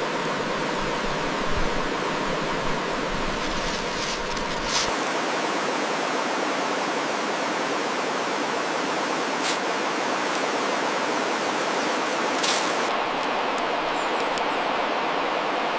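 Steady rushing hiss of running water, with a few faint brief clicks. About five seconds in, the deep rumble under it drops out.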